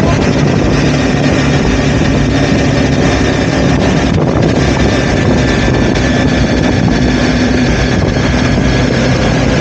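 Honda CBR motorcycle engine running steadily while riding, with wind noise on the microphone.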